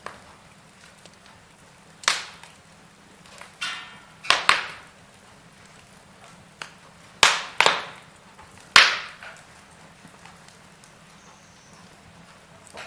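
Wood fire in a fireplace crackling: burning logs give about seven sharp pops at irregular intervals, most of them between about two and nine seconds in. A short hiss comes about three and a half seconds in, and a faint steady hiss lies under it all.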